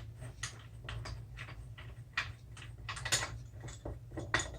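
Irregular clicks and knocks from a clamp being loosened and taken off a wooden miter-saw fence, with wood and metal handled against each other, over a steady low hum.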